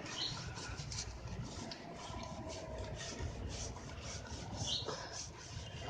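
A brush scrubbing a dirty motorcycle drive chain soaked in cleaning spray: repeated rasping strokes, about three a second, loosening the grime.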